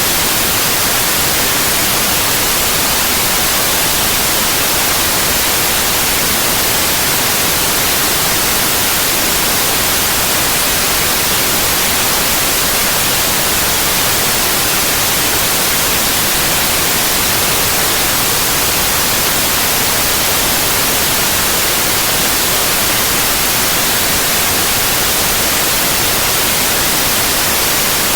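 Synthetic white noise: a steady, even hiss, loud and unchanging.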